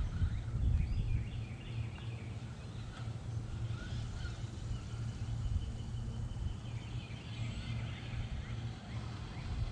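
Small electric RC monster truck (Redcat Volcano 18 V2, 1/18 scale) running: a steady low rumble of tyres and chassis over the ground, with a thin motor whine that rises and falls.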